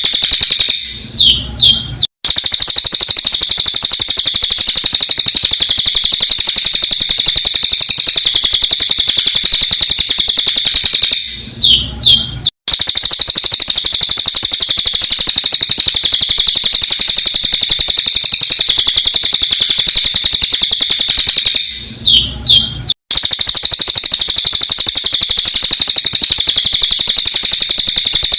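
Sped-up recording of a cililin bird singing: a dense, very fast, high-pitched chattering trill. Roughly every ten seconds it breaks for about a second into a few falling notes and a brief drop-out, then starts again the same way, because the recording is looped.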